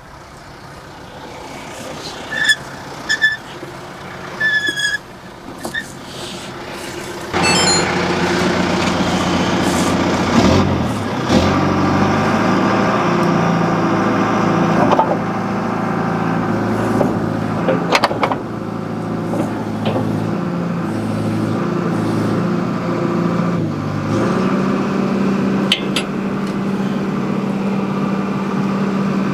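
John Deere 310G backhoe's diesel engine is throttled up sharply about seven seconds in and then runs under hydraulic load, its pitch stepping up and down as the backhoe works, with a few sharp knocks. A few short high beeps sound before it.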